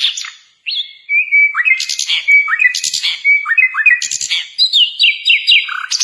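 Sikatan londo flycatcher singing a rapid, varied song of short whistles, quick repeated notes and chattering phrases, pausing briefly just under a second in.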